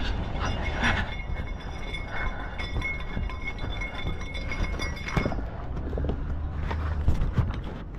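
Engine idling with a steady low hum, and scattered metallic knocks and clinks during unloading at a flatbed trailer.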